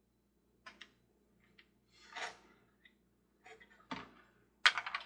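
Small plastic gears and gearbox housing of a Mr. Christmas Ferris wheel being handled and fitted by hand: a few light clicks, a short scrape, then a louder clack near the end.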